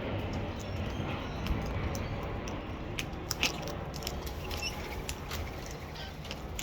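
Parrots crunching and chewing seed: irregular sharp cracks and clicks of beaks on husks, with a few short high chirps.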